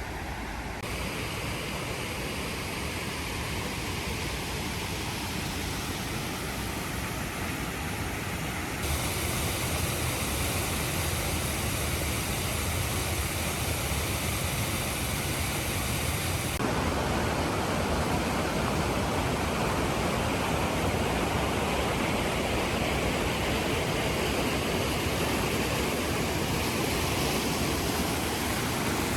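Snowmelt water rushing through a narrow rock gorge, a steady roar that changes abruptly in tone and loudness a few times.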